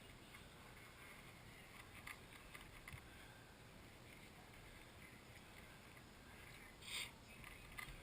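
Near silence: faint steady hiss, with a brief scratchy rustle about seven seconds in.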